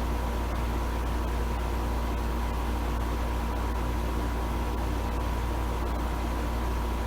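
Steady low hum with hiss and a faint steady tone above it, unchanging throughout, like running room machinery or electrical hum.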